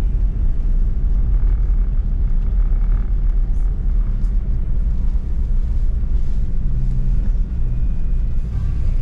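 Nissan Pathfinder driving through snow: a steady, loud low rumble of engine and running gear.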